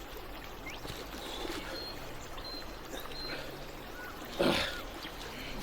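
Creek water running steadily, with a person's short strained grunt about four and a half seconds in.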